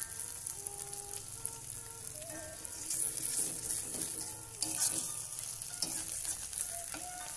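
Egg omelette with shallots and chili frying in hot oil in a wok, a steady crackling sizzle, with a spatula now and then scraping and tapping against the wok.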